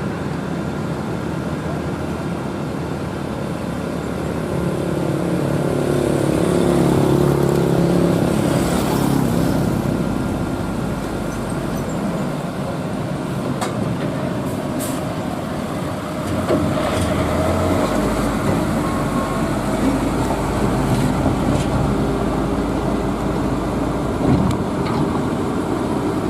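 Heavy diesel truck engines labouring up a steep climb, the engine note rising for several seconds and then falling back as the gears change. A deeper, louder engine comes in past halfway.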